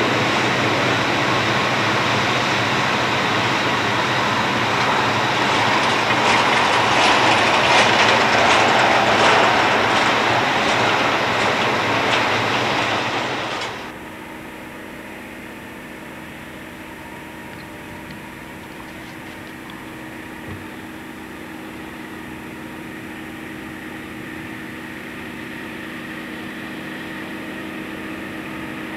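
Freight train cars rolling past close by, their wheels clacking over the rail joints. About halfway through this cuts off abruptly and gives way to the quieter, steady drone of diesel locomotives approaching from a distance, growing slowly louder.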